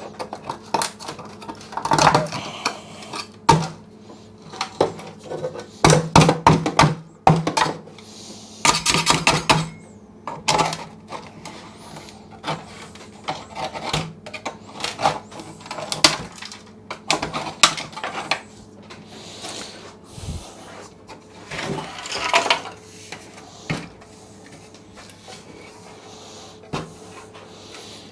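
A metal scraper scraping and chipping at hardened, over-applied tank sealer in a motorcycle fuel tank, in irregular bursts of strokes with pauses between, over a steady low hum.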